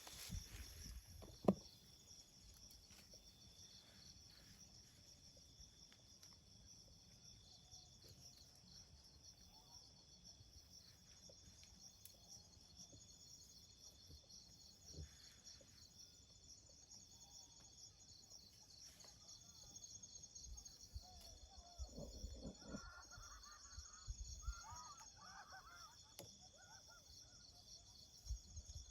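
Faint, steady chorus of forest insects, a high, finely pulsing trill. A few short wavering chirping calls and some low knocks come in between about 22 and 26 seconds.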